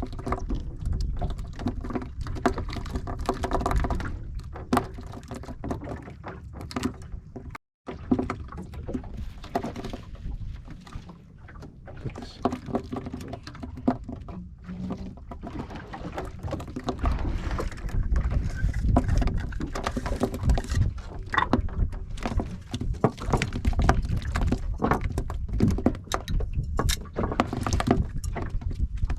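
Small fishing boat on the water: water sloshing against the hull, with scattered knocks and thuds from the boat.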